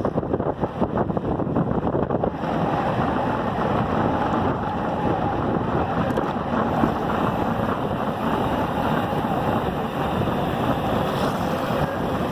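Wind rushing over the microphone of a moving bicycle, a steady noisy rush that is choppier for the first two seconds.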